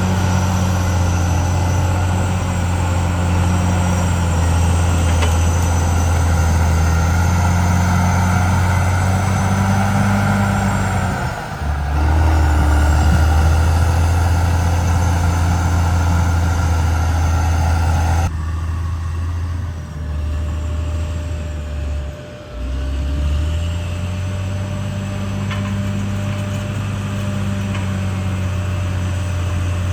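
Caterpillar D6R XL bulldozer's diesel engine running steadily under working load. The engine note sags briefly twice, about a third of the way through and again later on.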